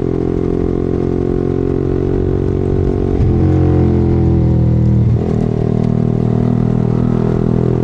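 Yamaha R15 single-cylinder motorcycle engine running while riding, a steady engine note whose pitch changes twice, about three seconds in and again about five seconds in.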